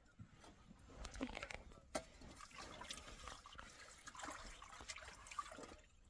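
Faint liquid sounds, dripping and trickling, with scattered small clicks and knocks.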